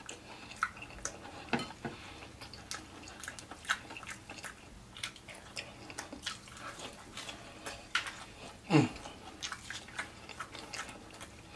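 A person chewing and biting fried chicken close to the microphone: many short, wet smacks and clicks of lips and mouth, with one louder, falling mouth sound about nine seconds in.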